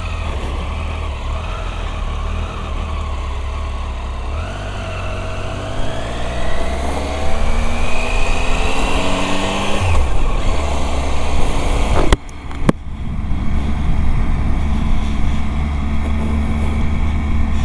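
Motorcycle engine accelerating, its pitch climbing steadily for several seconds and then dropping at a gear change about ten seconds in, under a heavy wind rumble on the microphone. Two sharp clicks come a couple of seconds after the gear change.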